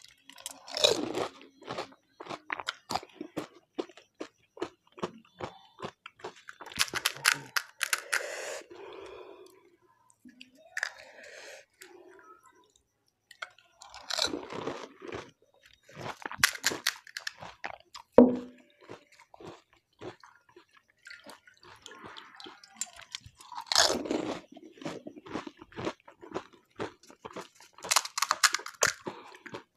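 Crisp panipuri (golgappa) shells being bitten and chewed, crunching in about seven short bouts with brief pauses between mouthfuls.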